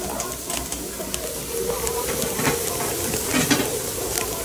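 Food sizzling and frying in a pan over a wood fire, with a utensil stirring it and making irregular clicks and scrapes against the pan.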